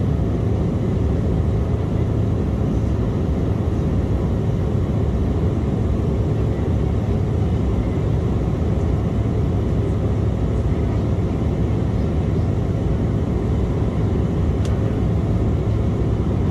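Steady low cabin roar inside an Embraer E175 jet airliner in flight: engine and airflow noise, even and unchanging.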